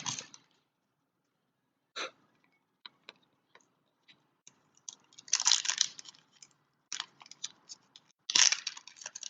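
Crinkling of foil trading-card pack wrappers being handled, in short crackly bursts with small clicks between; the loudest bursts come about five seconds in and again near the end.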